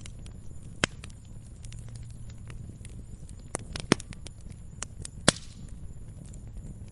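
Wood fire crackling in a fireplace: a low steady rumble of flame with scattered sharp snaps and a few louder pops.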